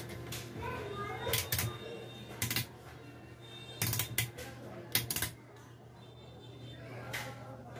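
Scattered sharp clicks and knocks, several in quick pairs, over a steady low hum.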